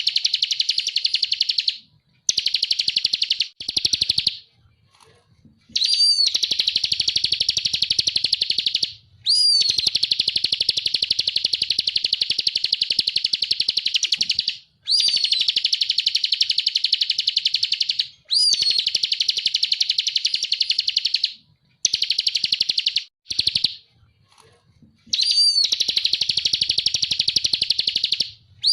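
Bar-winged prinia (ciblek) singing: long, rapid trills of high repeated notes, each phrase opening with a quick upward sweep. The phrases last from under a second to about five seconds, with short pauses between them.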